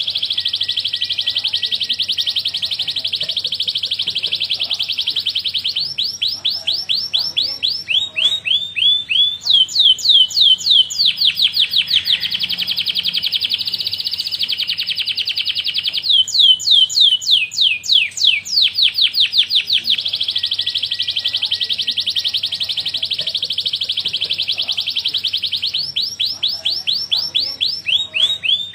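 Domestic canary singing a long, continuous song. Rapid buzzing trills alternate every few seconds with runs of repeated high whistled notes that each sweep downward.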